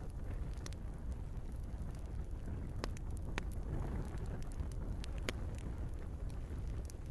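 Log fire burning in a fireplace: a steady low rumble of flames with scattered sharp crackles and pops from the burning wood, the loudest pops about three seconds in and just past five seconds.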